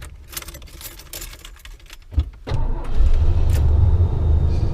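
Keys jangling, then about two and a half seconds in the motorhome's engine starts right up and settles into a steady idle.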